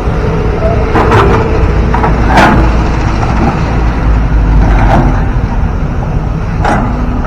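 Heavy diesel engine running steadily with a low rumble, with four short sharp knocks or clanks.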